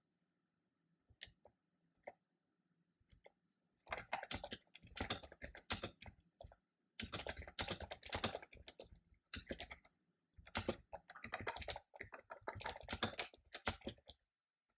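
Typing on a computer keyboard: a few scattered key clicks, then fast typing in three runs broken by short pauses.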